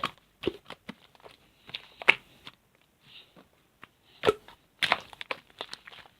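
Slime being squished and poked by hand, giving irregular sharp clicks and sticky pops, the loudest about two seconds in and again a little after four seconds.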